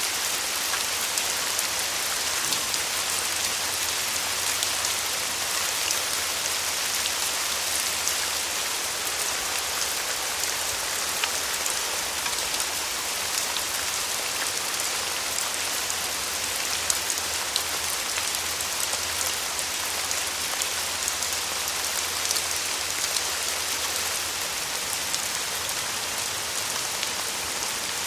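Steady rain falling, a dense even hiss with many small drop hits scattered through it.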